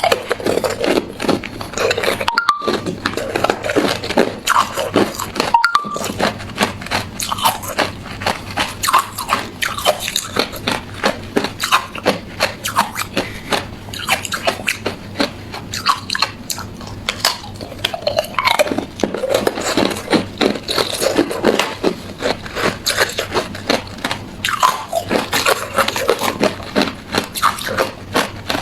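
Hard clear ice being bitten and chewed, a continuous run of crisp crunching and cracking. The crunching breaks off for an instant twice in the first six seconds.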